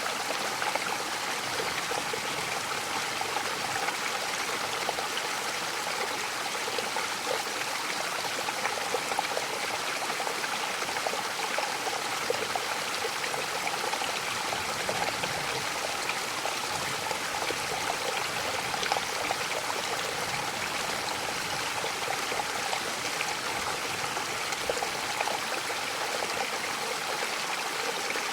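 Mountain waterfall: a steady rush of falling water with many small splashes in it.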